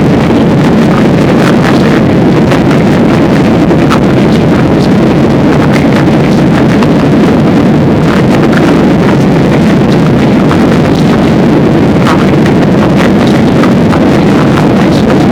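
Loud, steady roar of an airliner's engines and rushing air heard inside the cabin, with small scattered clicks and rattles.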